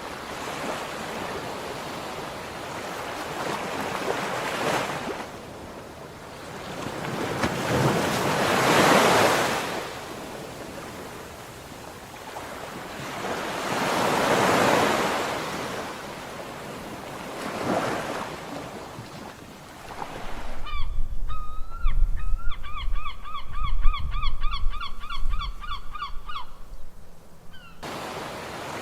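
Sea waves washing onto the shore, swelling and falling away every four to five seconds. About two-thirds of the way through they give way to a bird's rapid string of repeated calls over a low rumble, lasting about seven seconds.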